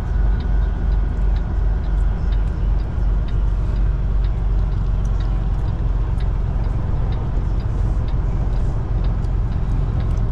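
Semi truck's diesel engine running steadily at low speed as the truck rolls into a fuel lane, a heavy low rumble with a steady drone.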